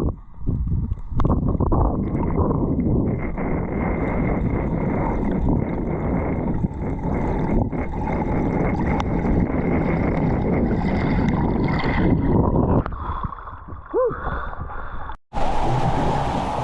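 Water sloshing and gurgling against the camera microphone, a dense steady rumble. About thirteen seconds in it drops away; just after fifteen seconds the sound cuts out for an instant and a brighter rush of wind and waves starts.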